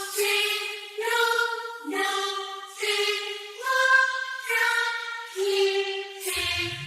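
Remixed dance music played over a parade sound system: a break of sustained choir-like melody notes that change about once a second, without bass or drums. Near the end, a rising sweep begins.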